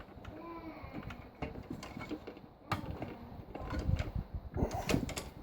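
Scattered clicks and small plastic knocks of a RAM stick being worked into a tight motherboard DIMM slot by hand, with a sharper click a little past halfway.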